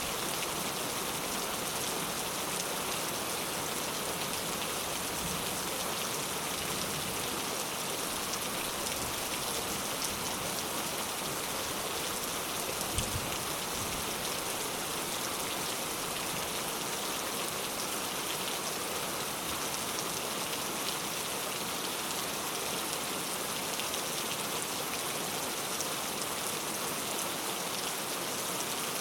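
Steady rain falling hard and evenly on surfaces, a dense hiss of drops, with one brief low thump about halfway through.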